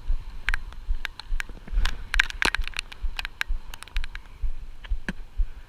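Irregular sharp taps of raindrops hitting the phone and its microphone, over a low rumble of wind buffeting the microphone.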